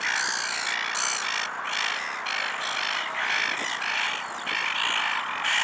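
A colony of water birds calling over one another: a dense chorus of short calls, several a second, with no let-up.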